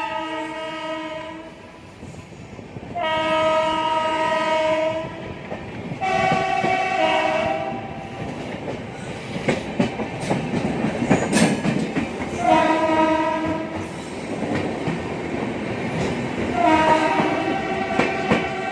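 Indian Railways locomotive horn sounding a multi-note chord in five blasts of one to two seconds each. Between the blasts, train wheels clatter over rail joints, with a run of sharp clicks midway.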